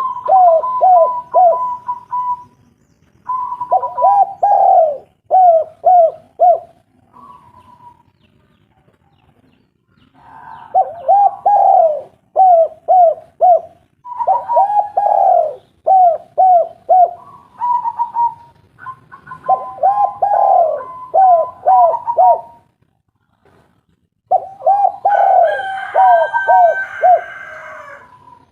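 Spotted doves cooing: phrase after phrase of one longer coo followed by three or four short, arched notes, with gaps of a second or two between phrases. A second, steadier higher-pitched coo overlaps many phrases, so more than one dove is calling.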